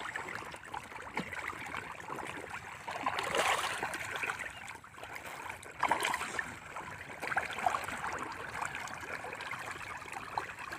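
Water flowing and trickling steadily, with a few louder swells of splashing.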